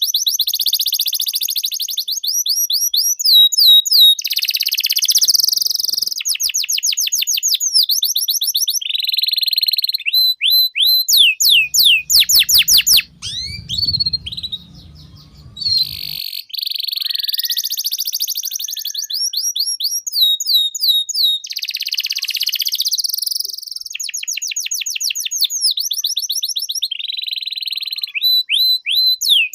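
Domestic canary singing a long, continuous song of fast repeated trills and rolls, switching to a new phrase every second or two, with a pause of a few seconds midway.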